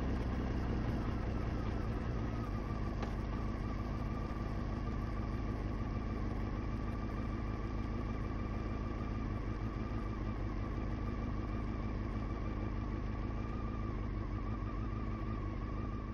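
Honda CBR motorcycle engine running steadily at an even pitch, with no revving.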